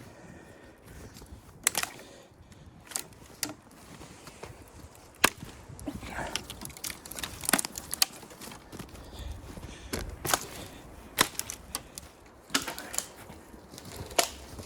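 Wood knocking and cracking: about nine sharp, irregularly spaced knocks over a low steady background, typical of firewood being handled or split at a wood-stove camp.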